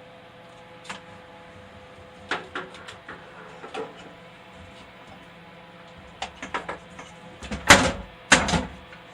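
Scattered clicks and knocks, the two loudest close together near the end, over a steady electrical hum.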